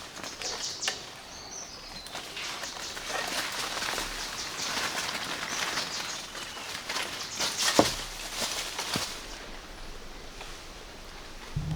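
Rustling and handling noises with scattered light clicks and knocks, one sharper knock about eight seconds in; a small motor starts up at the very end.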